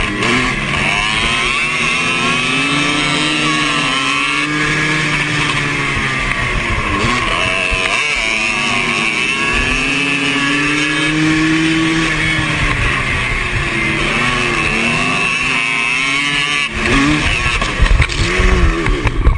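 ATV racing engines revving, their pitch rising and falling again and again with throttle and gear changes. About 17 seconds in, the steady engine sound gives way to louder, uneven noise with sharp peaks.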